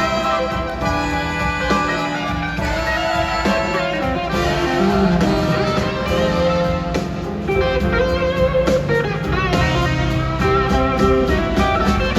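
Live blues band playing an instrumental passage, with electric guitar leading over a steady band accompaniment.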